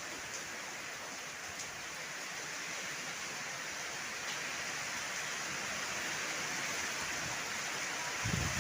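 Heavy rain falling steadily, a dense, even hiss that grows slightly louder toward the end, with a few faint ticks of drops.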